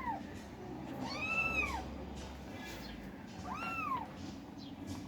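Kittens meowing: two high, arching meows that rise and fall in pitch, one a second in and another about two seconds later, with the end of a third right at the start.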